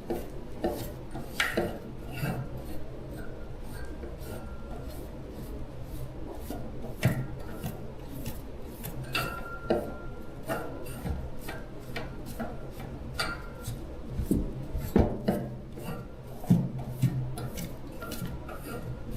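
Hand work on small mechanical parts: irregular clicks, knocks and scraping, with a few louder knocks near the end, over a steady low hum.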